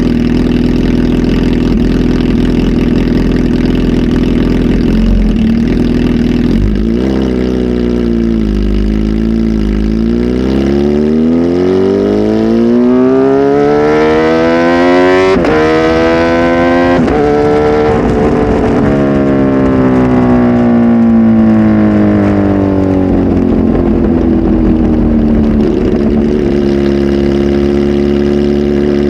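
Kawasaki Z H2 SE's supercharged inline-four, flash-tuned with a full exhaust system, idling steadily, then revving slowly up for several seconds to a peak with a sharp crack at the top, and falling back to settle near idle.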